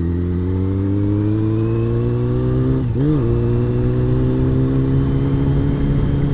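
Honda CBR600's inline-four engine pulling steadily on the road, its pitch rising slowly. Just before three seconds in the pitch briefly rises and drops, then it runs on at a nearly steady pitch.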